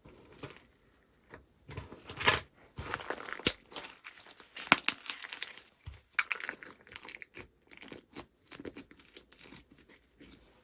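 Slime being squeezed and stretched by hand, making irregular crackling, clicking and popping sounds.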